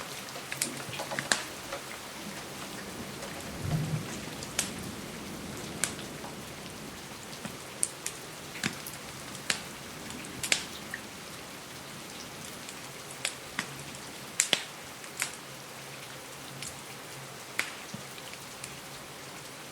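Steady rain hissing, with sharp scattered pops and cracks of a crackling wood fire about every second or two, and a brief low thud about four seconds in.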